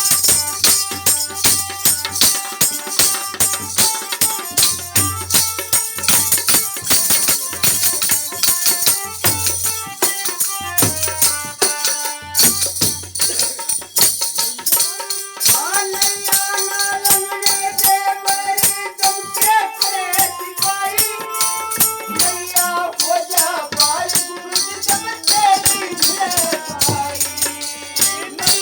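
Instrumental interlude of a devotional bhajan: fast jingling, tambourine-like percussion over a pulsing drum beat, with a held melody line with bending pitch coming in about halfway.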